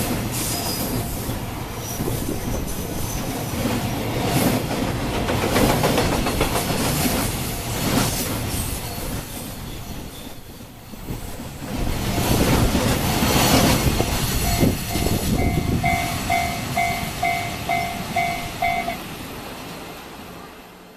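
Container wagons of a slow freight train rolling past: a steady rumble and clickety-clack of wheels on the rails, easing briefly about halfway through and fading near the end. For several seconds in the second half, a pulsing electronic two-tone sound repeats about twice a second.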